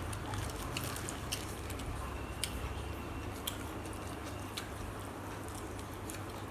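A person chewing and biting food close to the microphone, with scattered small clicks and smacks, over a steady low background hum.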